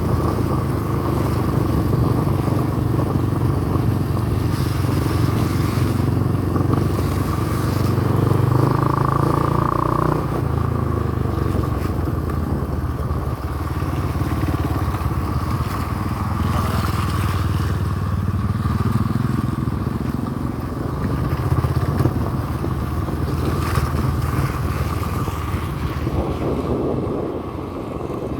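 Honda CRF150L's single-cylinder four-stroke engine running while the bike is ridden along a trail, its note rising and falling as the throttle changes.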